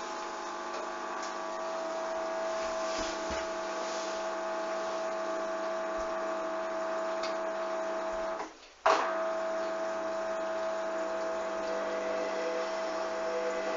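Hoover washing machine running a duvet wash: a steady whining hum with water swishing. It drops out briefly about two-thirds of the way through and starts again abruptly.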